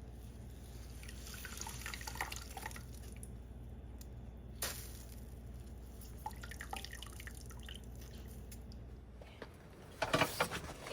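Faint liquid dripping, a scatter of soft drips and small clicks over a steady low hum. About ten seconds in the hum stops and a run of louder knocks and rustling begins.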